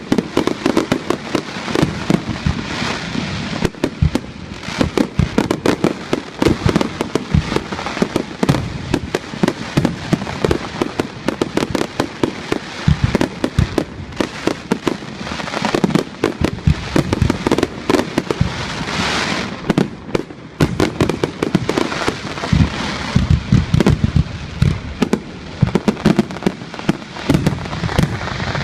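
Fireworks display: a dense, continuous barrage of bangs and crackling bursts, several per second without a break.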